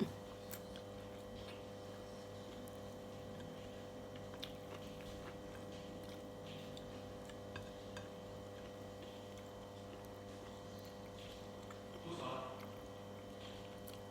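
Faint scattered clicks and smacks of someone eating by hand, chewing between bites, over a steady low electrical hum.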